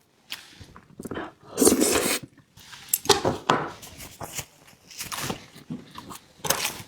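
Close-up eating sounds: a run of short bites, chews and crunches, mixed with clinks and scrapes of utensils on dishes, the loudest a little under two seconds in.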